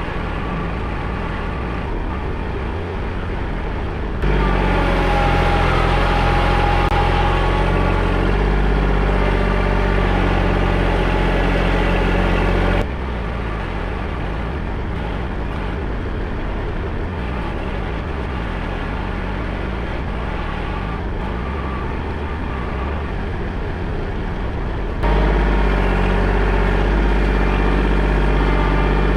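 Engine of the digging machine running steadily at a loud level. The sound steps up abruptly about four seconds in, drops back about thirteen seconds in, and steps up again near the end.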